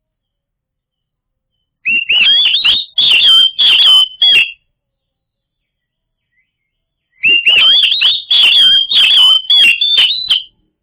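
Oriental magpie-robin (kacer) singing: two loud bursts of rapid, varied whistled phrases, each about three seconds long, a few seconds apart.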